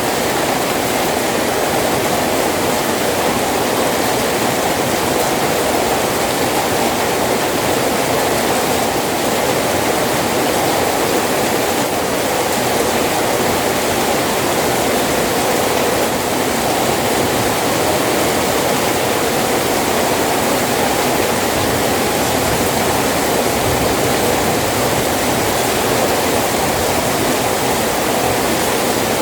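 Steady heavy rain, a dense even rush of water that does not let up.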